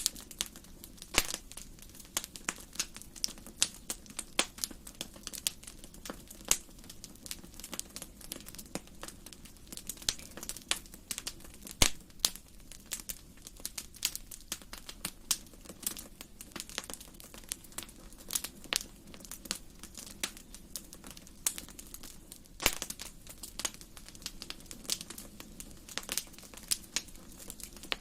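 Wood fire burning in a fireplace, crackling with irregular sharp pops of varying loudness over a low steady rumble.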